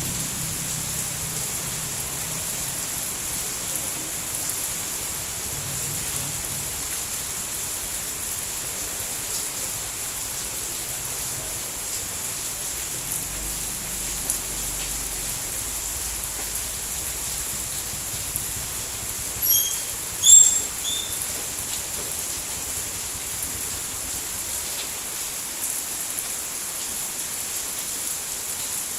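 Steady rain falling, an even hiss. About two-thirds through come a few short, high-pitched chirps.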